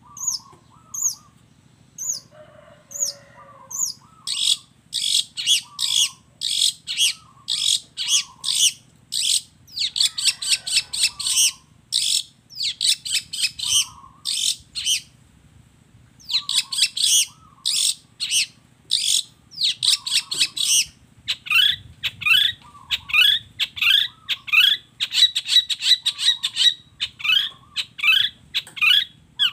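Long-tailed shrike (cendet) singing a rapid, harsh chattering song of short high notes about two a second, with a brief pause about halfway through. Later the song turns to quick upward-sweeping notes, and lower whistled notes come in between throughout.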